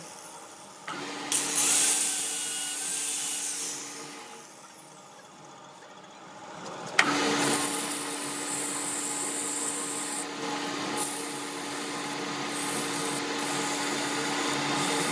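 A workshop power tool working metal: a steady machine hum with harsh grinding or cutting noise over it. The noise comes in two stretches, about one to four seconds in and again from a sharp click about seven seconds in.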